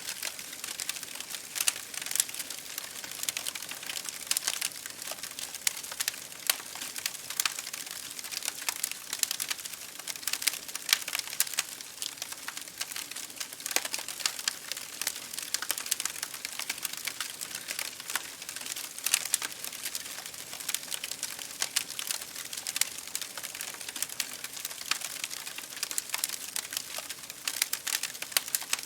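Wood crackling and popping in a fireplace, mixed with rain pattering on window glass: a dense, irregular run of small pops and ticks over a steady high hiss.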